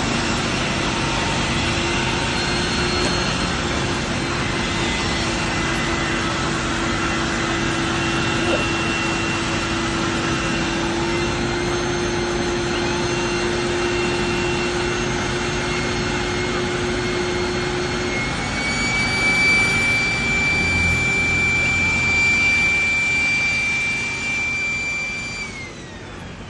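A motor-driven machine running with a steady rushing whine; about 25 seconds in its pitch falls and it winds down as it is shut off.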